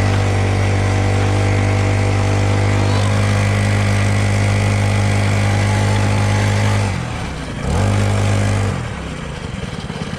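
Small dirt bike engine held at steady revs for about seven seconds, then the throttle is let off, blipped once briefly, and the engine drops back toward idle.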